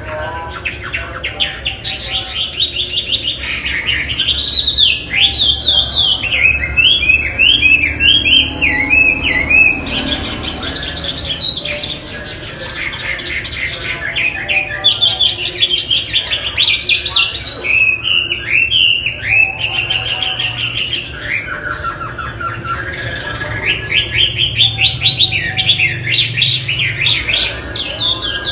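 Chinese hwamei (wambi) singing a loud, varied song of rapid repeated phrases, broken by a few short pauses.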